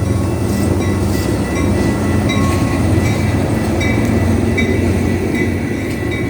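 Amtrak Hiawatha passenger train hauled by Siemens SC-44 Charger diesel locomotives running into the station: a loud, steady rumble of engine and wheels, with short faint high-pitched squeaks scattered through it.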